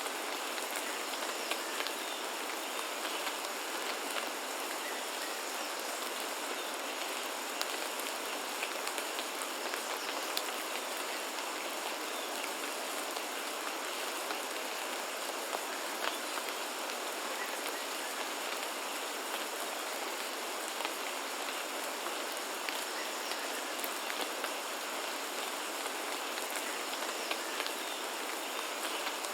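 Steady rain falling, a constant hiss with many individual drops ticking sharply on surfaces.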